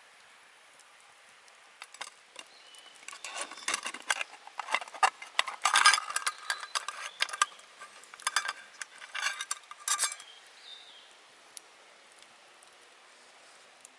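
Camp cookware and metal utensils clinking and clattering as they are handled: a quick, irregular run of sharp knocks that starts about two seconds in, is busiest in the middle and stops a few seconds before the end.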